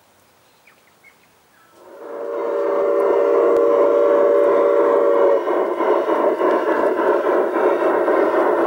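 A garden-scale model locomotive's whistle sounds a steady chord for about three and a half seconds, starting about two seconds in, over a steady rushing noise that carries on after the whistle stops.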